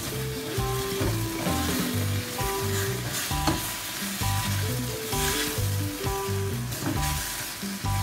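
Pork and bell peppers sizzling in a stainless steel wok while a spatula stirs and scrapes them, with one sharp clink of the spatula on the wok about three and a half seconds in. Background music with a steady bass line plays over it.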